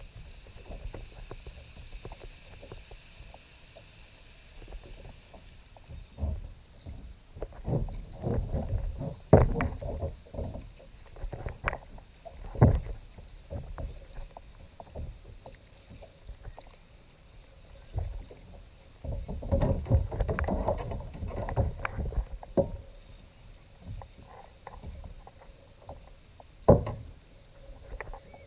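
Kayak on the water: scattered knocks against the hull and two longer stretches of splashing and clatter, the first about a third of the way in and the second just past the middle, with a sharp single knock near the end.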